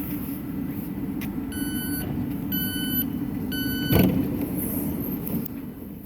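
Passenger train's door warning beeps: three half-second beeps about a second apart over the steady hum of the train, followed by a loud thud about four seconds in.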